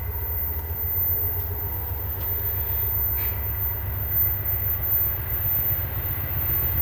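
Low, steady rumble of an approaching freight train's GE Dash 9-40CW diesel locomotives, still some distance off.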